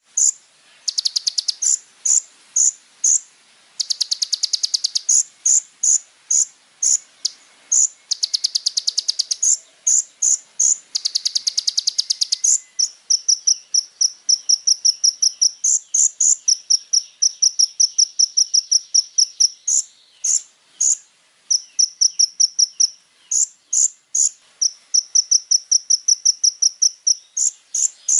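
Kolibri ninja sunbird singing a fast, high-pitched song. It opens with several buzzy rapid trills, then moves to long runs of quick repeated chips broken by short sweeping whistles.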